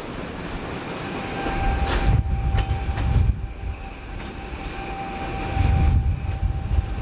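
A train running on the rails with low rumbling surges and clicks of wheels crossing rail joints. A thin steady whine sets in about a second in.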